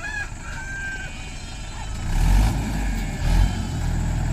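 Mahindra 585 DI tractor's four-cylinder diesel engine running, with two loud low rumbles about two and three seconds in before it settles to a steady tone. A rooster crows near the start.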